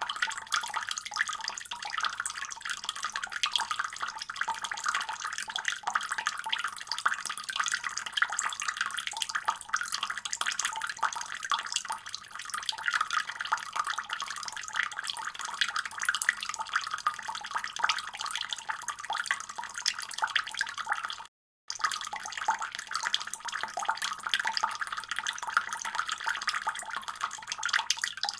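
Water running steadily from a faucet into a sink, a continuous rushing splash. It cuts out completely for a split second about three-quarters of the way through, then resumes.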